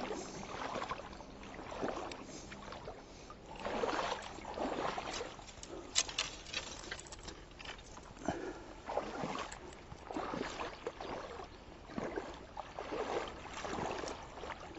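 Fishing rods and gear being set down: irregular light knocks and rustles, with a sharper click about six seconds in, over water sloshing.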